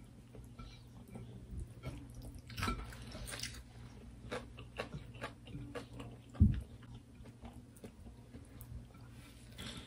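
Close-up wet chewing and small mouth clicks of people eating rice and beef curry with their fingers. There is a single low thump about six and a half seconds in.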